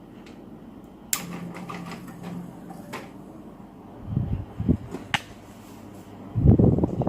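A few sharp clicks and low knocks, like something being handled, with a brief faint hum; the loudest knocks come near the end.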